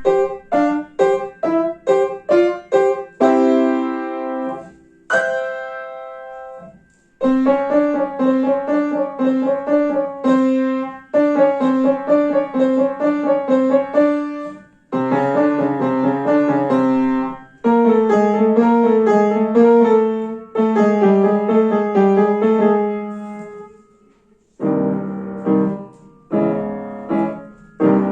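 Solo piano piece. It opens with a quick run of short, detached chords, then continues in phrases of held and repeated notes separated by brief pauses, moving lower in pitch near the end.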